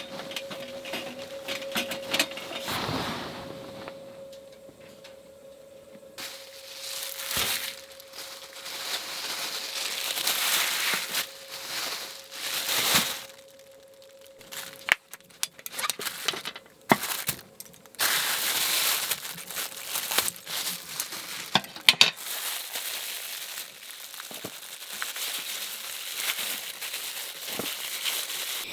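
Close crinkling and rustling, like packaging or paper being crumpled, broken by many sharp clicks and light knocks as objects are handled. A faint steady tone runs under the first half and fades out.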